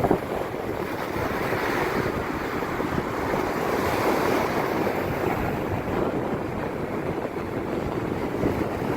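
Ocean surf washing onto the shore in a steady rush that gently swells and eases, with wind rumbling on the microphone.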